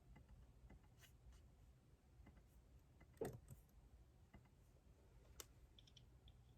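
Faint desk sounds of someone writing with a pen on paper: scattered small taps and clicks, a soft knock on the desk about three seconds in, and a sharper click a couple of seconds later.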